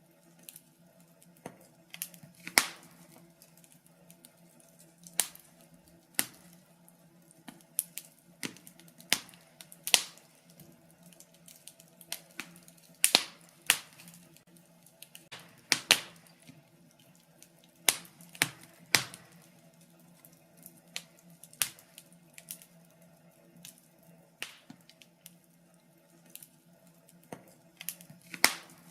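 Wood fire in a fireplace crackling, with irregular sharp pops about once or twice a second, some much louder than others. A faint steady low hum runs beneath.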